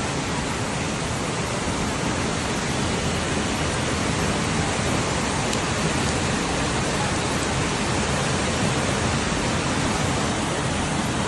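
Floodwater rushing through a street, a steady, unbroken noise of fast-flowing water.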